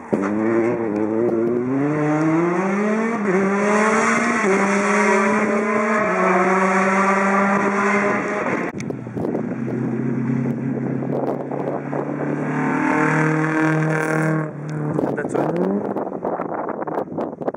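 Rally car engine under hard acceleration, its pitch climbing and dropping back at each of several quick upshifts. It then runs at lower revs with a brief stuttering, cuts off sharply near the end, and revs up again.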